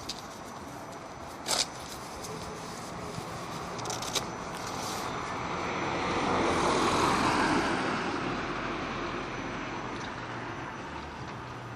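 A passing vehicle: a steady rushing noise that swells over a few seconds, peaks midway and fades away. A sharp click about one and a half seconds in, and another near four seconds.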